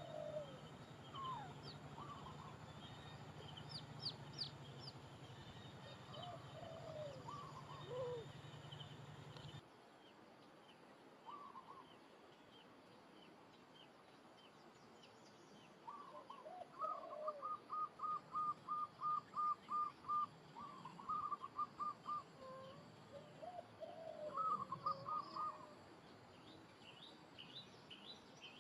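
Birds chirping and calling outdoors: short gliding chirps at several pitches, with a quick run of a dozen or so repeated calls, about four a second, past the middle. A low steady hum underneath cuts off abruptly about a third of the way in.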